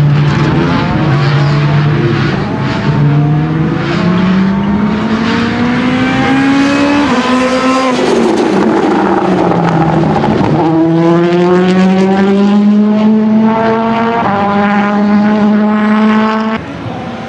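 Citroen C3 WRC Plus rally car's turbocharged four-cylinder engine accelerating hard, its pitch climbing through the revs and dropping back at upshifts, with a rougher stretch between pulls. The sound becomes suddenly quieter near the end.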